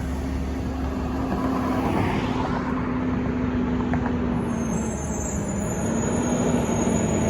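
Garbage truck's diesel engine running steadily over road noise, with a humming drone that dips slightly in pitch about halfway through.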